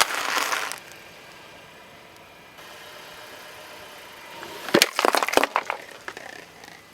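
Brittle objects crushed under a car tyre: a short burst of crackling at the start, then about four and a half seconds in a quick run of sharp cracks and crunches that tails off.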